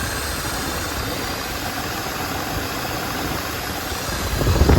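1973 Chevy K20 pickup's engine idling steadily, running for the first time after about twenty years of sitting, with its valve train exposed and moving. It gets a little louder just before the end.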